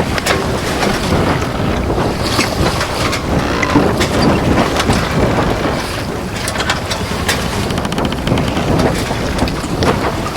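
Wind buffeting the microphone over water splashing around a small boat under way, a loud uneven rush.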